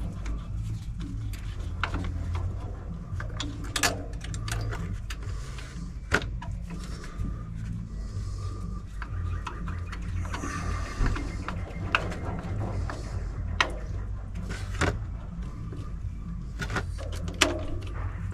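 Hand tools at work on a carburettor mounting: scattered sharp metallic clicks and knocks, a dozen or so spread irregularly, over a steady low hum.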